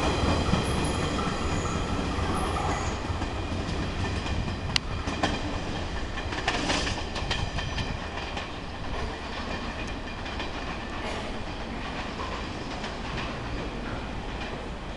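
A 115 series electric commuter train pulling away and running off into the distance, its rumble fading steadily, with a few sharp wheel clicks over the rails about five to seven seconds in.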